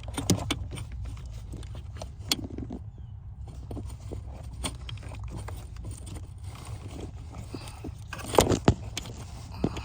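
Scattered clicks, knocks and rattles from handling a light, trying to clip it in place under the car's dashboard, over a steady low hum, with a louder cluster of knocks near the end.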